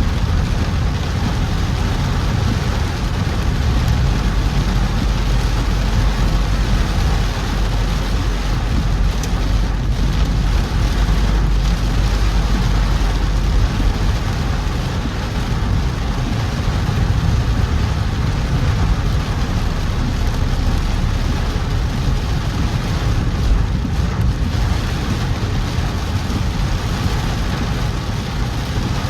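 A car driving through heavy rain: a steady low rumble of engine and tyres on the wet road under the even hiss of falling rain.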